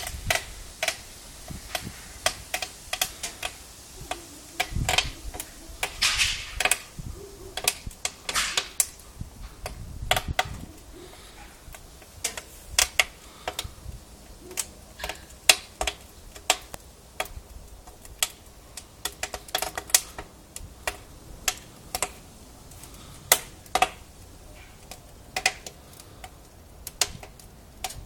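Firewood crackling and popping in the firebox of an Amur stove-fireplace during its first firing: irregular sharp snaps, several a second at times, over a low steady hiss.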